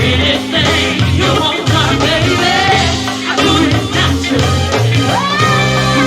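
Live go-go band playing, with a steady bass-and-drum groove and a voice or lead line sliding in pitch over it.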